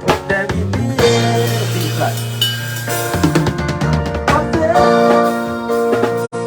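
A band playing music with a drum kit (bass drum and snare) under sustained chords and notes. The sound cuts out for an instant near the end.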